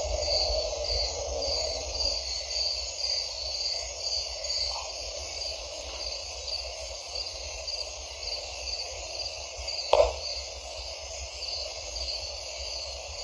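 Insects chirping in a steady, even pulse of one or two beats a second over a low rumble, with a single sharp knock about ten seconds in.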